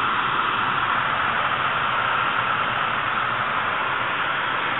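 A 1995 Mercury Grand Marquis's 4.6-liter modular V8 idling warm after a drive, a steady whirring hiss with no change in speed.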